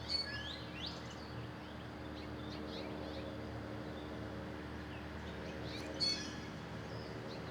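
Small songbirds chirping: a quick run of short high chirps just after the start and another about six seconds in, with scattered fainter calls between, over a steady low hum.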